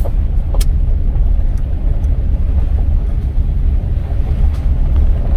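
A car driving, heard as a steady low road and engine rumble, with a few light knocks near the start and about four and a half seconds in.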